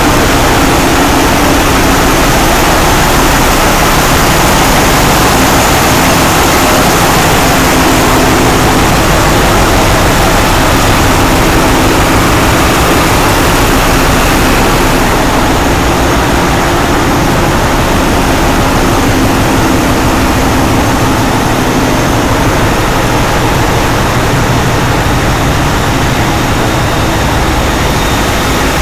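Machinery in a passenger ship's engine room running, a very loud, steady din with a constant low hum and a few steady tones in it. The highest hiss eases a little about halfway through.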